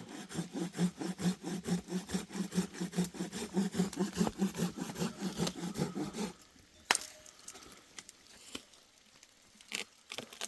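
Hand saw cutting wood in quick, rhythmic strokes, stopping about six seconds in; a few sharp knocks follow.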